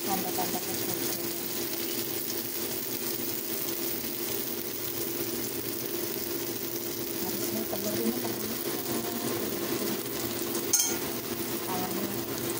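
Beaten egg and enoki mushrooms sizzling steadily in hot oil in a wok as chopsticks stir them, with a steady low hum underneath. One sharp click sounds a couple of seconds before the end.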